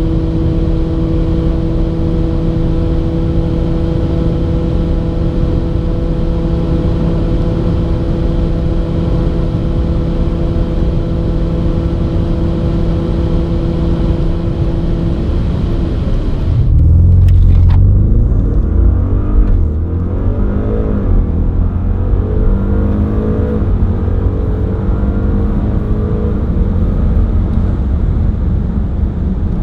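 Onboard sound of an Audi's engine at speed: for the first half a steady, unchanging engine drone. About two-thirds of the way through the sound changes abruptly to a loud low rumble, then engine pitch climbing and dropping repeatedly as it pulls hard through the gears.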